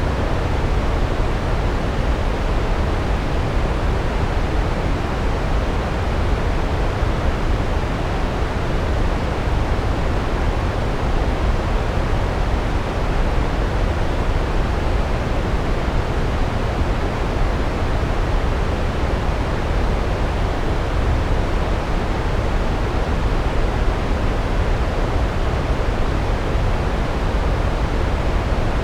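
Large waterfall: a steady, unbroken roar of falling water, heaviest in the low end.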